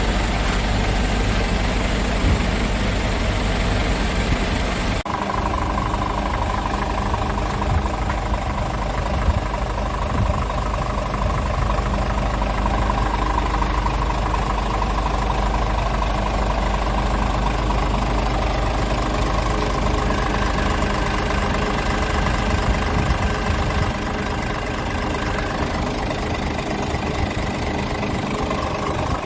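Scania S tractor unit's diesel engine idling steadily. Its tone changes abruptly about five seconds in, and the low rumble drops a little near the end.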